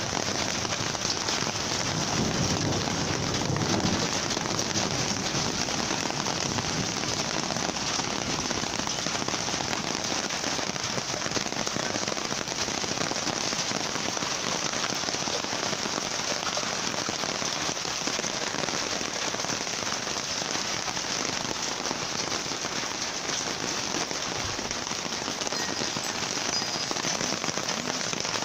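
Heavy thunderstorm rain falling steadily, a dense, even patter of drops.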